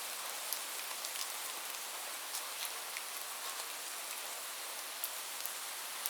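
Steady rain: a dense, even hiss with many individual drops ticking at random through it.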